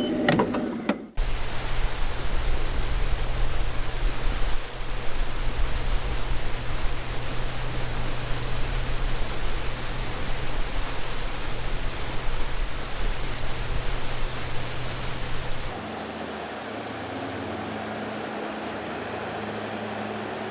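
Boat under way: wind rushing over the microphone with a steady low motor hum underneath. About fifteen seconds in it cuts to a quieter, steady hum.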